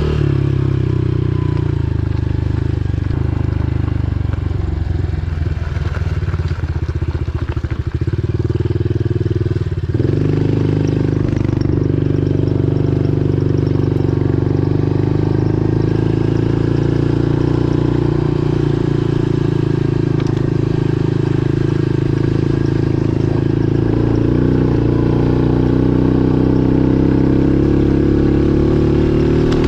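Pit bike engine running while the bike is ridden along a trail. Between about four and ten seconds in the engine note drops low and uneven, then it steadies and holds a fairly constant pitch.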